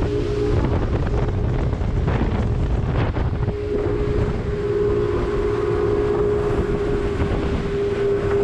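Motorboat engine running at speed, with wind buffeting the microphone. A steady engine hum fades out near the start and returns about three and a half seconds in.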